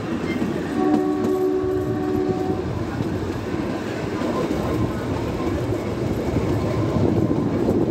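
Shimla heritage train running along its track, heard from one of its coaches: a steady rumble of wheels on rails. About a second in, the train's horn sounds for about two seconds.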